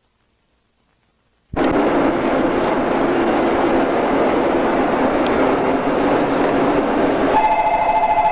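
Cassette recording of a JR East 113-series electric train cutting in abruptly about one and a half seconds in, with loud steady train noise. Near the end a steady tone of several notes joins in.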